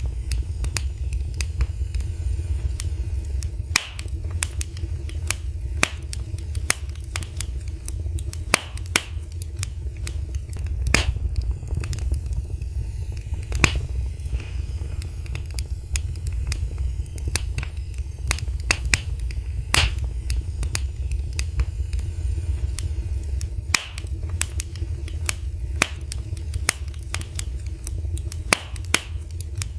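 Fire crackling in a fireplace: irregular sharp pops and snaps, a few bunched close together at times, over a steady low rumble.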